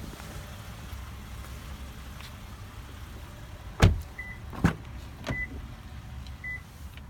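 Car doors of a 2014 Toyota Avalon being worked: two loud thumps a little under four seconds in and again under a second later, followed by the short high door-open warning chime beeping three times, about once a second, over a steady low rumble.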